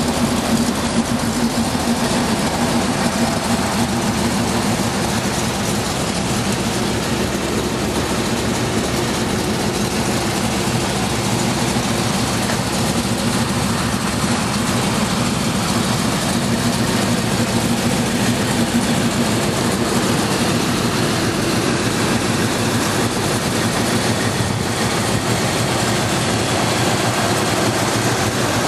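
1968 Chevrolet Malibu's engine idling steadily.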